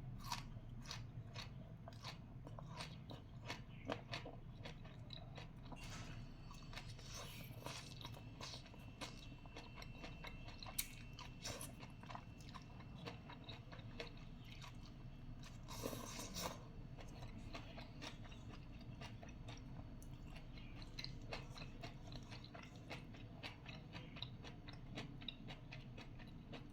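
Close-miked chewing of celery stalks: a run of crisp crunches and bites with wet chewing between them, one louder burst of crunching about sixteen seconds in.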